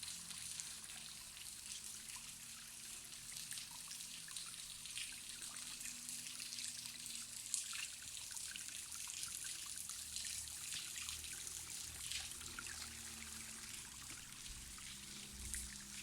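Thin trickle of water falling and dribbling down the Skakaloto waterfall, a faint steady splashing with small drips. The waterfall is nearly dry, with only this trickle left.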